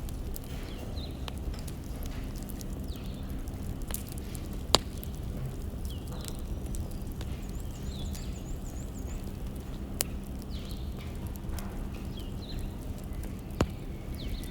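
Firewood burning: a steady low rumble with small crackles and three sharp pops a few seconds apart, the first the loudest.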